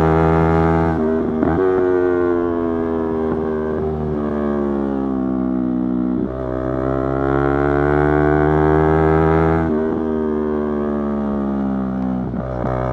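Yamaha YZF-R3's parallel-twin engine under way. Its pitch rises and falls with the throttle, and it breaks briefly about every three seconds.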